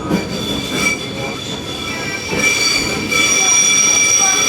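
Class 484 electric train running on the track, its steel wheels squealing with several high, steady shrill tones over the rumble of the running gear; the squeal grows louder about three seconds in.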